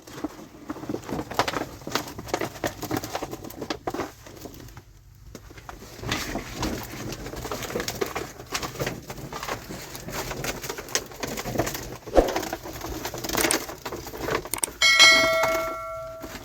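Irregular knocking and clattering of objects being handled, and about 15 s in a single clear metallic ring, like a metal pot or utensil being struck, that fades over about a second.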